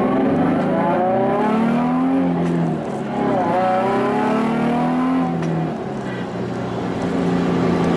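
Nissan VQ-series V6 with an aftermarket exhaust accelerating hard: the engine note climbs, dips briefly around three seconds in at a gear change, climbs again, then eases off to a steadier, lower drone after about five and a half seconds.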